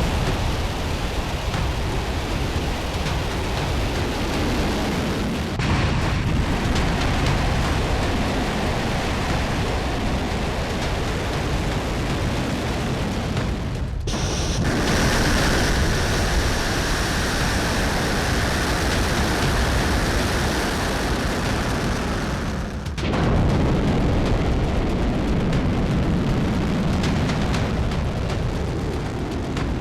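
Rocket exhaust of a Hwasong-17 intercontinental ballistic missile at launch: a continuous, loud, rumbling rush of noise. It is broken by abrupt cuts about 6, 14 and 23 seconds in.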